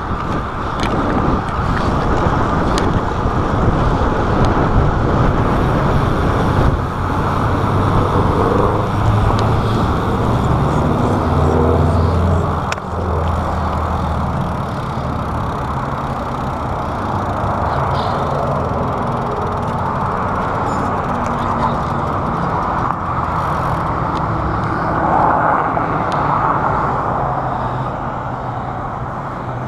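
Wind rushing over a chest-mounted action camera on a moving road bike, with road traffic passing close by. A vehicle's low engine hum is strongest about ten seconds in.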